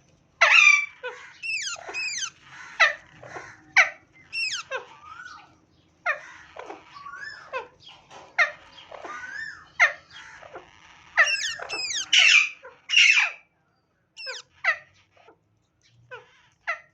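Bird chicks giving shrill begging squeals as their mother feeds them. The calls come several a second, each sweeping down in pitch, then thin out to a few scattered squeaks near the end.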